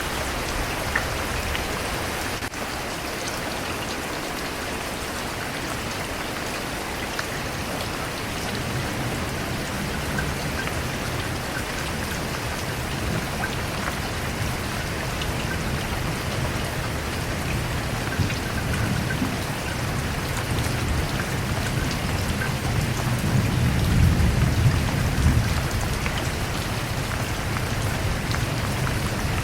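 Steady rain falling, with a low rumble of thunder that builds and is loudest about three-quarters of the way through.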